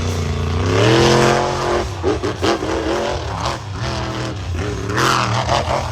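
Blockhead monster truck's engine revving through its run. The pitch climbs steeply about a second in, falls and wavers, then climbs again near the end, with a few knocks and clatters in between.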